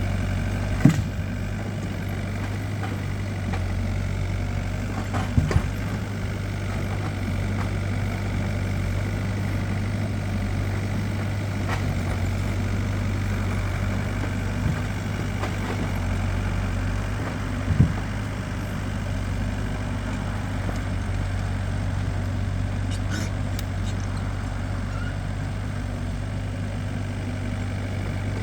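A vehicle engine running steadily at idle, with three short knocks: about a second in, a double one a few seconds later, and one more later on.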